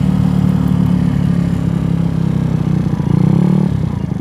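GY6 scooter's single-cylinder four-stroke engine, bored out to 88cc, running steadily under way; about three seconds in the engine note swells briefly, then drops off sharply just before the end as the throttle is closed.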